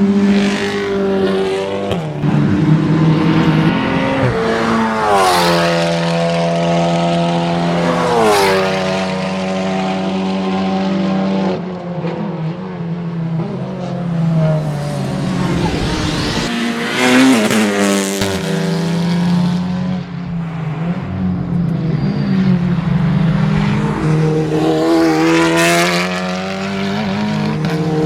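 Touring race cars running at full throttle and passing one after another, their engines revving up and dropping in pitch as they go by and shift gear. Several cars pass during the stretch.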